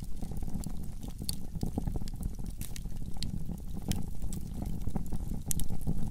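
Wood fire burning in a fireplace: a low, steady rumble of flames with frequent sharp crackles and pops, and a few louder pops about five and a half seconds in.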